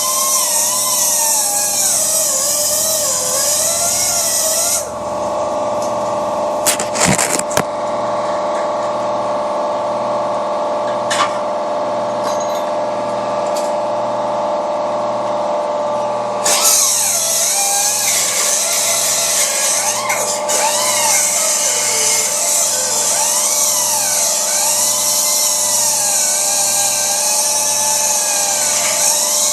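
Power grinder working on a car's exhaust, its motor running steadily with the pitch sagging and recovering under load, and a harsh high hiss while it grinds the metal. About five seconds in the grinding hiss stops and only the motor whine is left, with a few clatters. About sixteen seconds in the grinding starts again.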